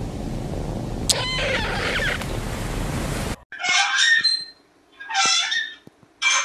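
Steady rushing wind noise with a short high squeak about a second in. This cuts off suddenly, and after it come two high-pitched cat meows, each under a second.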